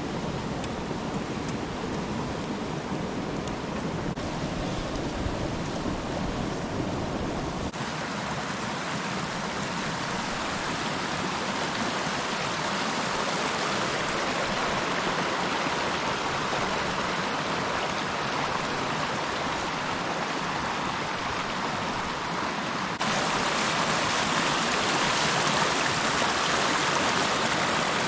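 Steady rushing of a flowing stream. The sound shifts abruptly, losing its low rumble and getting brighter about eight seconds in, and jumps louder near the end.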